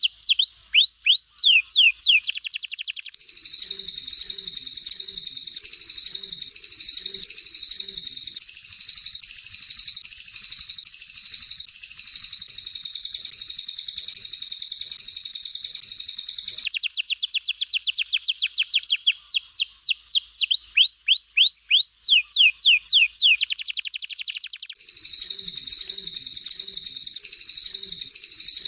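Canary and cililin songs alternating: a rapid run of descending whistled sweeps gives way about three seconds in to a long, dense, high rolling warble, the sweeps return about halfway through, and the warble comes back near the end.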